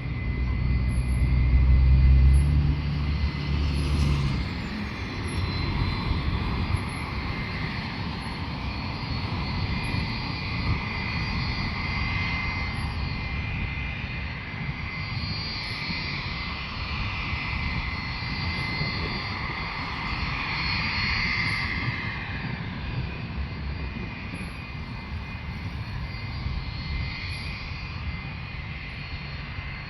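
Airplane engines running: a steady rushing noise with a high whine that swells and fades around the middle. A heavy low rumble runs through the first few seconds.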